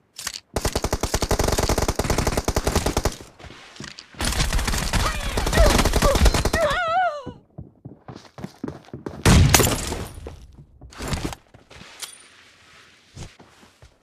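Video-game automatic gunfire: two long bursts of rapid fire over the first seven seconds, a loud bang a little after nine seconds, then scattered single shots.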